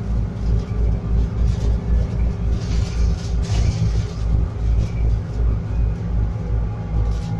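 Scania N280UD biogas double-decker bus heard from on board: the engine and drivetrain running with a steady low rumble and a faint steady whine above it.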